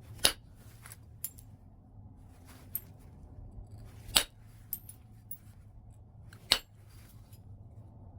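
Flintknapping on white chert: three sharp, loud cracks of flakes being struck or pressed off the stone, spaced a few seconds apart, with lighter clicks of the tool against the edge in between.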